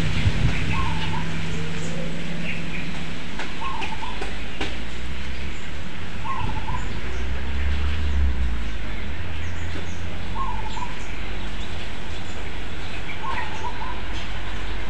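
A bird repeating the same short call about every three seconds, over a steady outdoor hiss, with a low rumble about eight seconds in.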